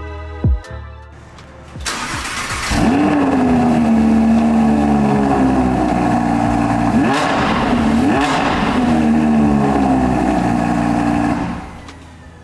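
2020 Audi R8's naturally aspirated V10 on its original exhaust starting up: it fires about two seconds in with a loud flare of revs, settles into a steady idle, gets two short blips of the throttle around the middle, and drops away near the end.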